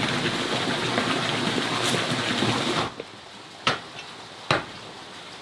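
A steady rushing noise that cuts off suddenly about three seconds in, followed by sharp single knocks, about one a second.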